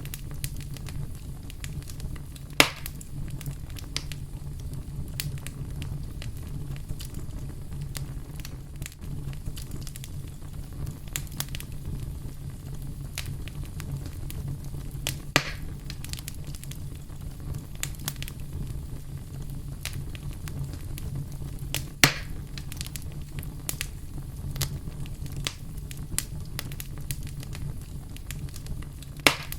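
Campfire burning with a steady low rumble and frequent small crackles, with loud sharp pops four times.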